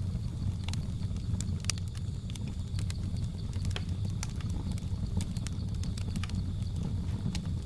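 Wood fire crackling, with irregular sharp pops and snaps over a steady low rumble of burning. A faint steady high drone of jungle ambience runs underneath.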